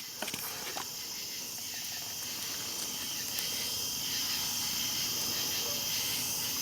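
A steady high-pitched hiss that slowly gets louder, with a few faint clicks in the first second.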